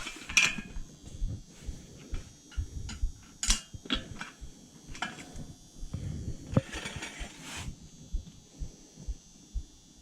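Hand tools working on a dirt bike wheel and tire: scattered sharp clicks and knocks, with a stretch of scraping about two-thirds of the way in.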